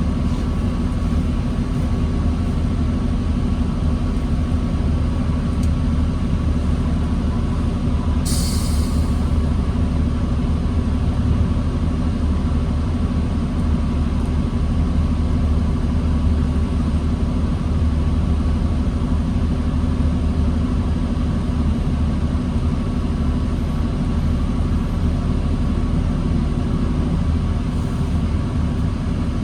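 Diesel engine of a 2009 New Flyer D40LFR transit bus running steadily at low speed or idle, a constant low rumble with a steady hum. About eight seconds in, a short hiss cuts in for about a second.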